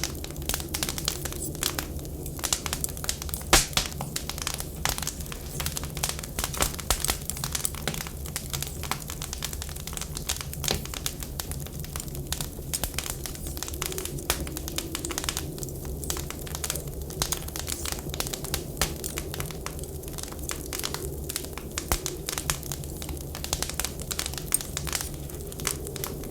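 Wood fire crackling with many sharp pops, over a steady low rumble and a faint whistling wind that slowly rises and falls.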